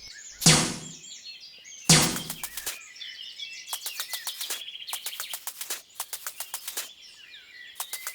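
Small birds chirping throughout. About half a second in and again near two seconds there are two loud knocks, followed by repeated runs of quick, sharp clicking.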